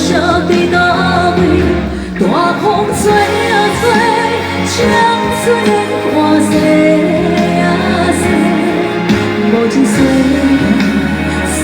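Woman singing a Taiwanese Hokkien pop ballad over steady instrumental accompaniment.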